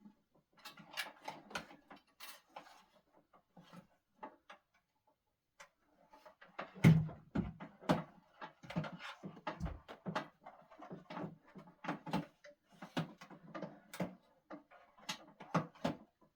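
Irregular run of short clicks, knocks and clatters, with a duller thud about seven seconds in, from objects being handled and set down.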